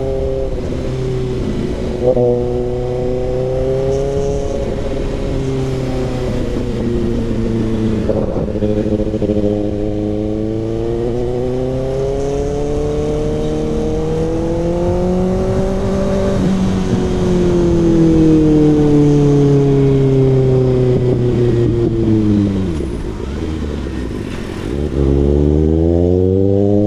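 Kawasaki ZX-6R's inline-four engine running through an SC-Project CRT exhaust while the bike is ridden. The engine note slowly rises and falls with the revs, drops low about three-quarters of the way through, then climbs sharply again near the end.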